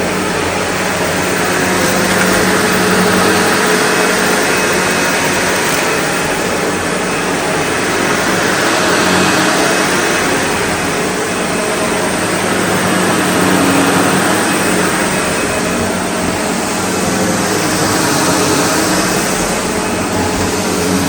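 SEBO Automatic X4 bagged upright vacuum cleaner running steadily under suction, its motor note holding steady over the rush of air, with slow swells in the sound every few seconds.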